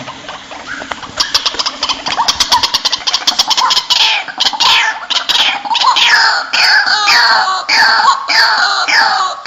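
White-breasted waterhen calling: a fast run of short notes starts about a second in and builds into loud repeated calls, roughly two a second, each one falling in pitch.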